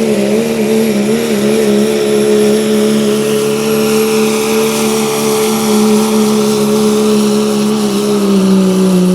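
Pulling truck's engine held at full throttle, dragging the weight sled down the track, its note wavering slightly at first and then holding steady and loud.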